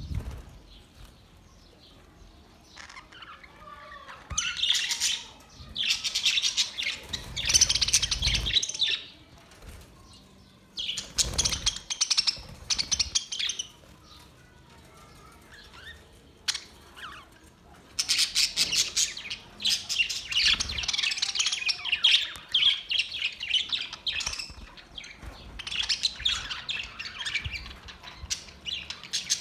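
Budgerigars chirping and chattering in bouts of rapid high twittering, with quieter gaps between bouts.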